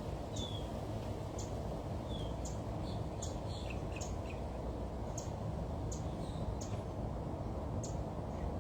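Small birds chirping: short high chirps and a few brief falling calls, about one or two a second, over a steady low rumble.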